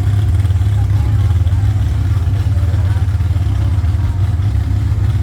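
Truck engine running loud with a steady, deep rumble.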